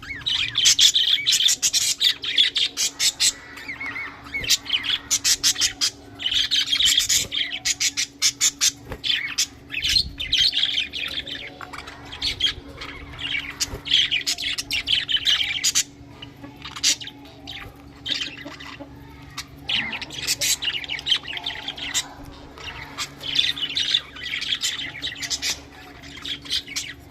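Budgerigars chattering and chirping, rapid scratchy warbles and squawks in bursts of a few seconds, over a steady low hum.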